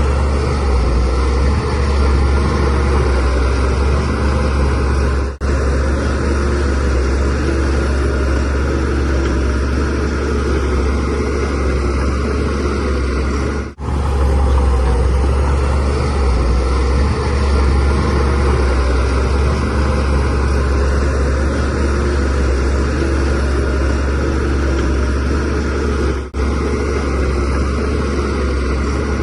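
Bulldozer's diesel engine running steadily, with a heavy low rumble, broken by three very short dropouts.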